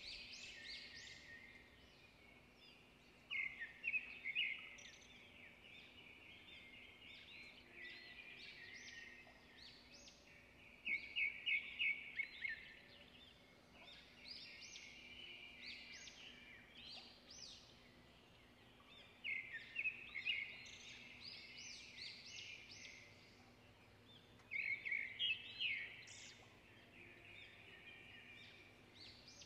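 Small birds singing: high chirps and rapid trills, with louder trilled bursts four times.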